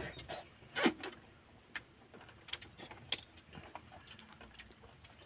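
Eating sounds close to the microphone: scattered mouth clicks and smacks of chewing, the loudest about a second in.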